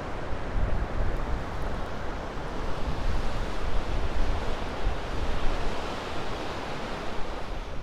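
Sea surf breaking at high tide, with strong gusty wind buffeting the microphone.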